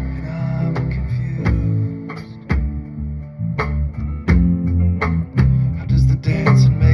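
A band playing an instrumental passage: strummed acoustic guitar over bass guitar, with a steady beat of sharp strokes.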